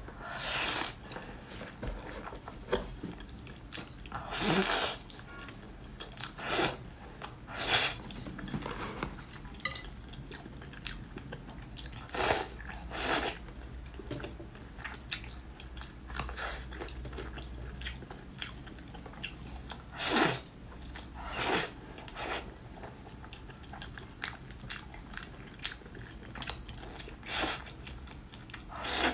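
Close-miked eating sounds: a person biting and chewing braised pork belly. Irregular sharp bites and chews come every second or so, with louder ones every few seconds.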